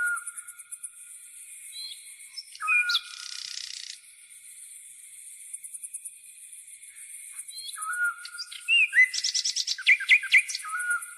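Birds calling over a steady, high-pitched chirring of grasshoppers. A short whistled note comes back every few seconds, and a quick run of loud chirps comes near the end.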